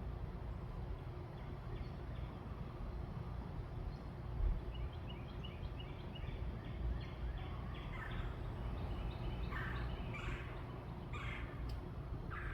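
Birds calling: a run of quick, evenly spaced short notes, then several louder rattling calls in the last few seconds, over a steady low rumble, with one dull thump a little before the middle.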